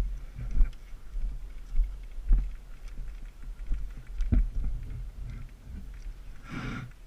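Irregular low thumps and rustling over a steady low rumble, with a short burst of rustling near the end, typical of movement and gear handling on a body-worn camera.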